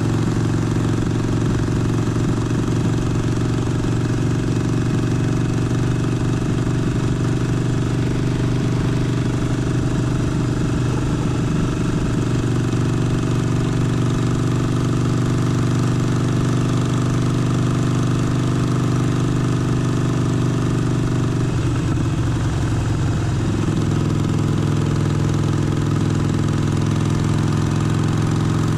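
Harley-Davidson Forty-Eight's 1200 cc air-cooled V-twin running at steady revs. Its note shifts briefly a little past two-thirds of the way through, then holds steady again.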